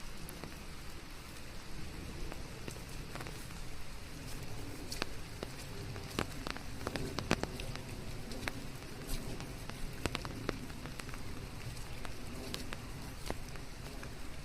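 Steady rain falling in a forest, a constant hiss with many individual drops ticking close by, thickest in the middle stretch. It is blended with white noise as a sleep sound.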